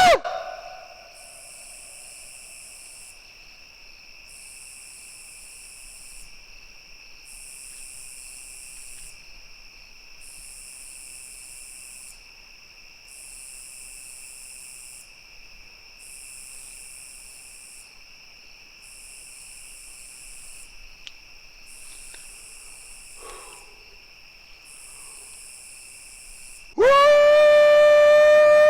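Night insects trilling: a steady high trill with a higher pulsing chorus that switches on and off about every two seconds, after a loud howling Bigfoot call cuts off at the very start. About 27 seconds in, another Bigfoot call begins: a loud, long howl rising quickly to a held pitch.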